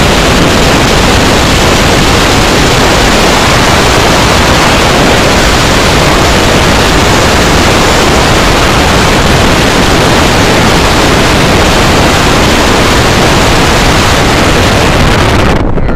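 Freight train of covered hoppers and tank cars rolling past close by, heard as a loud, steady rushing noise that overloads the microphone.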